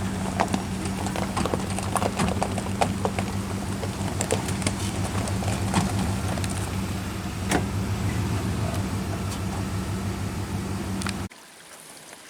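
Car engine idling with a steady low hum and scattered light clicks, stopping abruptly near the end.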